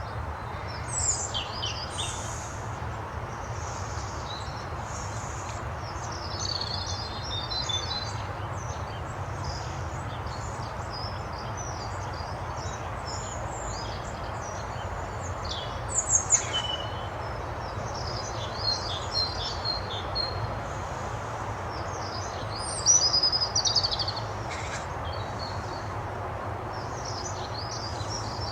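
Birds chirping and twittering in short high bursts, loudest around the middle and again about three quarters of the way through, over steady outdoor background noise.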